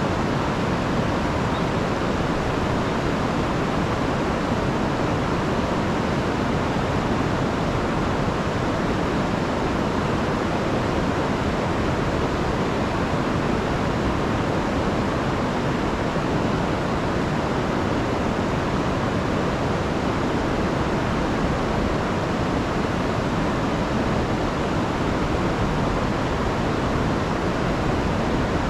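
Rain-swollen river rushing with a steady, unbroken roar of water.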